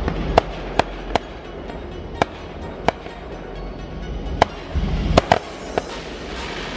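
Fireworks going off: about nine sharp cracks at uneven intervals, several close together around the middle, over a low rumbling background.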